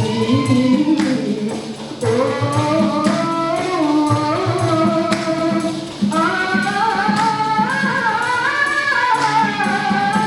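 A vocal group singing in harmony, several voices moving together over a steady percussion beat, with short breaks between phrases.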